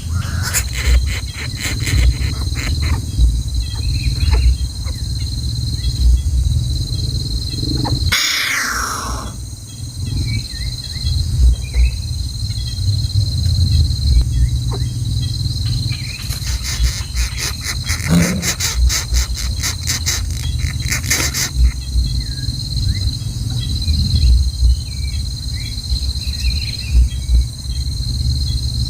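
Outdoor ambience of insects buzzing steadily, cricket-like, over a continuous low rumble, with scattered faint short chirps. About eight seconds in, one sound slides down in pitch.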